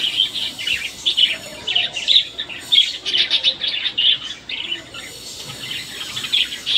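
Small birds chirping: many short, high chirps in quick, overlapping succession.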